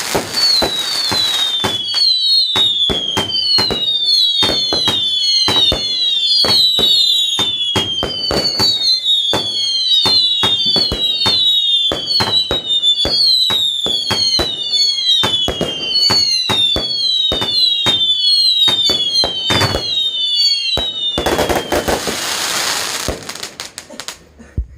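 Fireworks going off in a rapid barrage: a long string of whistles, each falling in pitch, over many sharp bangs and cracks. About three seconds from the end a dense crackling burst takes over, then dies away.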